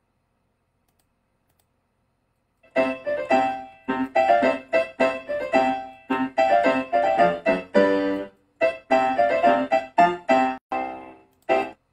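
Solo piano music: a short tune of struck notes that starts after almost three seconds of silence and stops shortly before the end.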